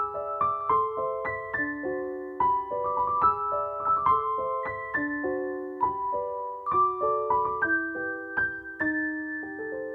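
Background piano music: a gentle melody of struck notes over chords, ending on a held chord near the end.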